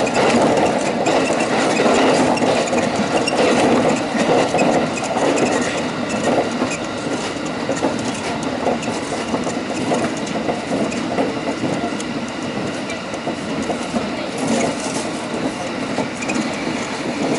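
Local train running at speed, heard from inside at the front behind the driver's cab: a steady rumble of steel wheels on the rails with clattering, a little louder for the first several seconds.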